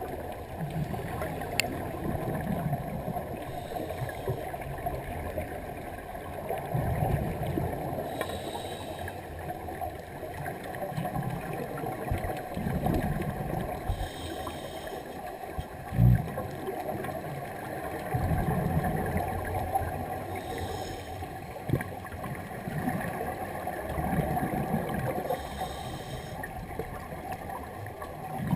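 Scuba diver breathing through a regulator underwater: a short hiss of inhalation about every five to six seconds, followed each time by the low gurgle of exhaled bubbles. A single dull thump about halfway through.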